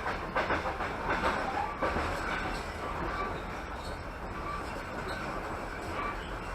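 Passenger train running along the line, heard from inside a coach: a steady rumble of wheels on rails, with a run of louder rapid clacks in the first two seconds.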